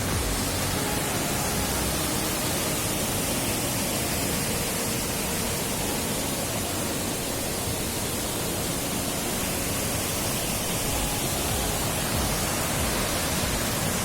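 Waterfall: water falling and rushing steadily, loud and even.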